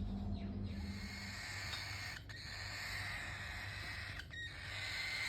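Young cockatiel chick's raspy begging call, in long stretches of about two seconds broken by short gaps.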